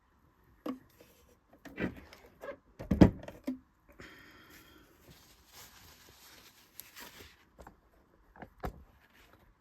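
Knocks, clicks and clatter from a small plastic-bodied Singer Genie sewing machine being handled and moved. The loudest knock comes about three seconds in, then a rubbing, rustling scrape for about three seconds, and two more knocks near the end.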